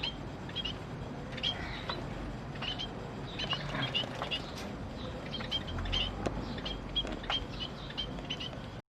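Cage birds in an aviary chirping: many short, high chirps, some in quick pairs, with a few faint clicks. The sound cuts off suddenly near the end.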